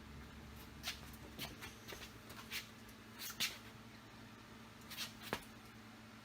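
A few scattered small clicks, taps and rustles of hand-handled hardware: the door handle with its studs and gaskets being worked into place in the door. The sharpest tap comes about three and a half seconds in.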